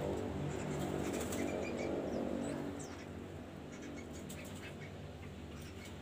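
Small birds chirping in short, high, falling notes, over a low hum that fades about two and a half seconds in.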